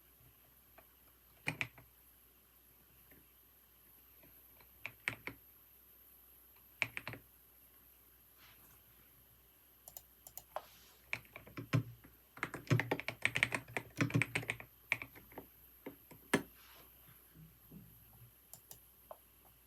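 Typing on a computer keyboard. A few short bursts of keystrokes come in the first seven seconds, then a faster run of typing about ten to fifteen seconds in, thinning out to scattered single keys.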